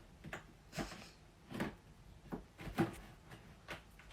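Soft, irregular light taps and knocks, about ten of them, over a quiet background.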